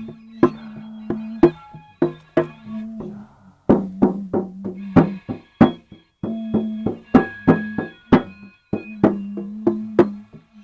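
Live rhythmic instrument playing: sharp percussive strikes, about two to three a second, over a low droning tone that sounds in stretches and breaks off between them.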